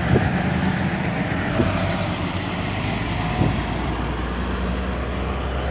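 Scania DC9 five-cylinder diesel engine of a Scania K94 bus running steadily, with a few short rattles or knocks from the bus.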